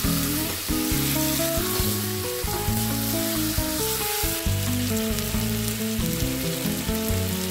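Chicken pieces and spice paste sizzling in hot oil in a steel wok while being stirred with a spatula. Light background music plays underneath.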